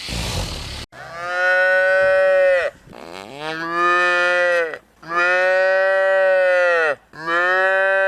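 Cattle mooing: after a breathy rush of noise in the first second, four long, steady-pitched moos follow one after another, each lasting about two seconds.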